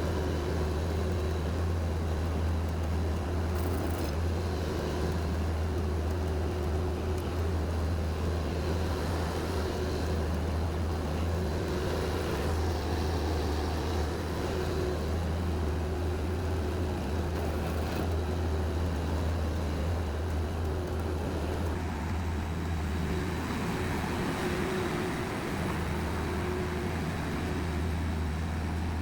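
A vehicle engine running steadily under load, a loud, even low drone with a steady higher hum above it.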